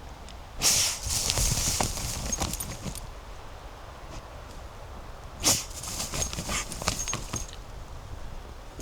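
Dry leaves and twigs rustling and crackling on the forest floor in two bursts, the first about half a second in and the second about five seconds in, each full of small snaps.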